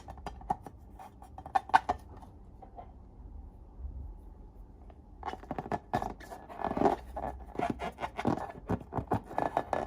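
Slime being worked by hand, with sticky clicking and crackling pops. The sound stops for about three seconds in the middle, then comes back denser, with rubbing.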